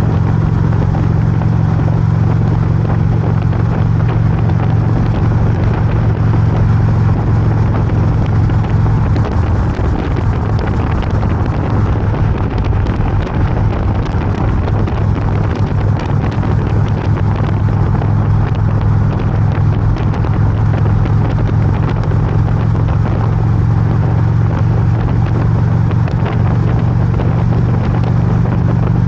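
Harley-Davidson V-twin motorcycle engine running steadily at highway cruising speed, with wind rushing over the microphone. The engine's low steady note blurs about nine seconds in and firms up again near the end.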